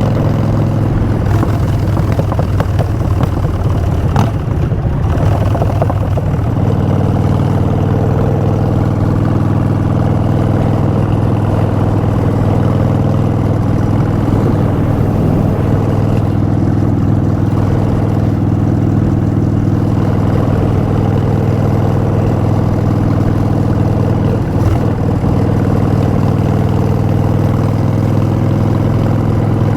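Harley-Davidson Street Bob's Twin Cam V-twin running through Vance & Hines Short Shots exhaust. The engine speed shifts over the first few seconds, then holds steady for the rest.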